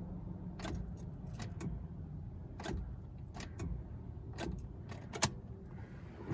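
Car keys jangling and clicking at the ignition switch, with a few irregular light clicks over a steady low hum.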